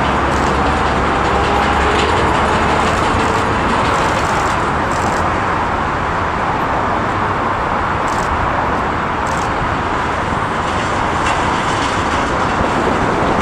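Jet airliner engines: a loud, steady rush with a faint slowly falling tone in the first few seconds.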